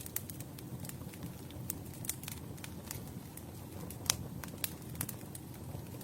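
Campfire burning: a steady low rumble of flames with irregular sharp crackles and pops of burning wood, one louder pop about four seconds in.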